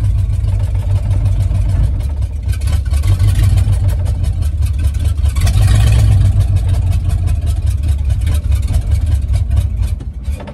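Ford 351 Cleveland V8 in a 1974 Ranchero running loud and rough with a heavy rumble, getting louder a little past halfway and dropping off near the end. It is running rich and untuned on old fuel.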